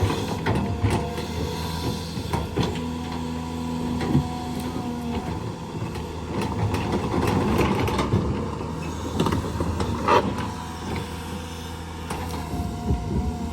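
Heavy diesel engines running steadily, with scattered metallic clanks and knocks, the loudest about ten seconds in.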